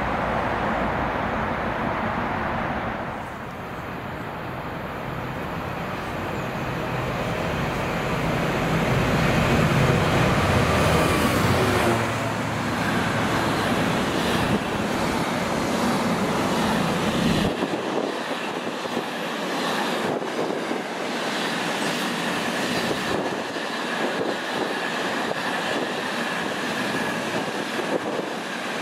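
Trains passing close by: for the first few seconds a locomotive-hauled train approaching, then a long container freight train running through a station, loudest about ten seconds in, its wagons rolling steadily past over the rails.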